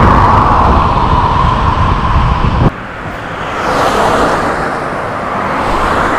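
Road traffic on a busy road, heard from a bicycle-mounted action camera. A loud rush with deep rumble from wind and movement cuts off suddenly partway through. Then a car passes, rising and fading.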